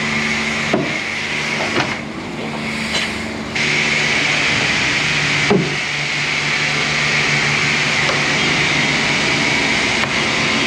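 Pressure washer running over a steady motor hum, its water spray hissing; the spray stops briefly about two seconds in and starts again abruptly, with a few sharp knocks along the way.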